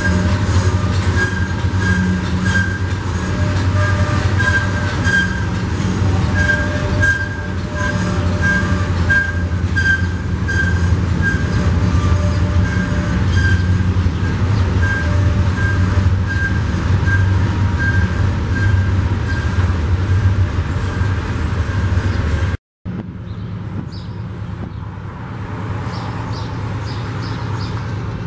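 Double-stack intermodal freight train's well cars rolling past close by: a heavy steady rumble with regular wheel clicks and an on-and-off high squeal from the wheels. About 23 seconds in, it cuts off suddenly to a quieter, steady rumble of another freight train approaching behind diesel locomotives.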